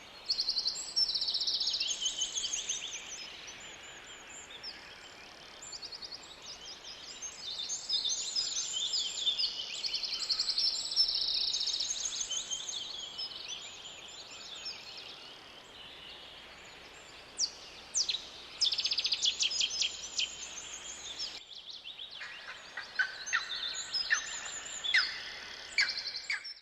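Forest songbirds singing: many high chirps and rapid trills from several birds overlapping, over a faint steady background hiss. About three-quarters of the way through the background briefly drops out before the songs carry on.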